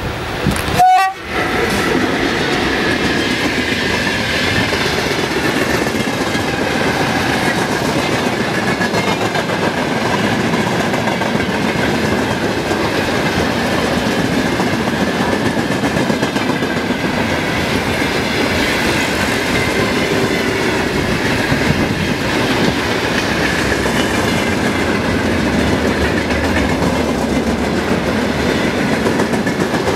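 Freight train rolling past at speed, its wagons' wheels clattering steadily over the rail joints. About a second in there is a brief loud burst with a short tone, as the front of the train passes.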